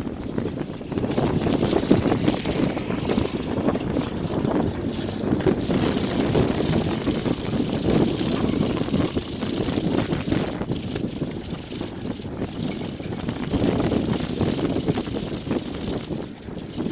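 Strong wind buffeting the microphone: a loud, gusting rumble that surges and eases.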